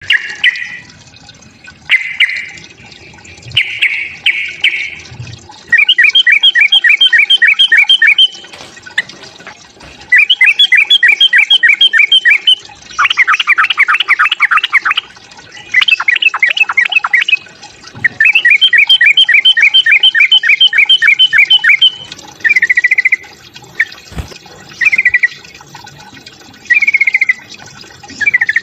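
Sooty-headed bulbul (trucukan) giving its excited 'fighting' call, the agitated song that provokes other bulbuls. It sings short phrases, then runs of quick repeated chattering notes about two seconds long with pauses between them, then short phrases again near the end.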